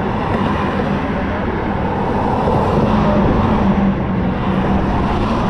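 Motorcycle underway: engine running at a steady pitch under heavy wind noise on the microphone.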